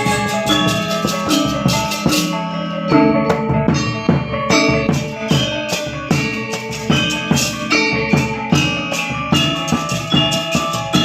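Balinese gamelan gong ensemble playing: bronze metallophones and gongs struck in a fast run of ringing notes, with drum strokes underneath.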